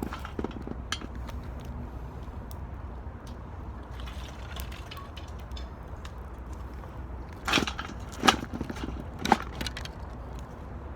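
Wood fire crackling inside an 18-litre square metal can, with scattered sharp pops. Three louder knocks come near the end.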